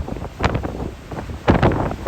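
Strong gusty wind buffeting a phone's microphone, a rumbling rush with sharp surges about half a second in and again near the end.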